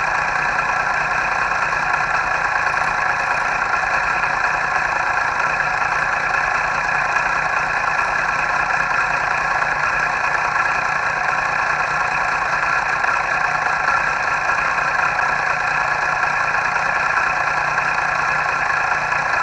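Motorcycle engine running at a steady pitch while riding, with no revving or gear changes.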